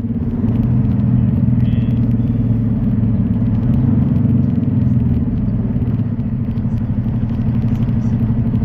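Semi truck's diesel engine running steadily while driving.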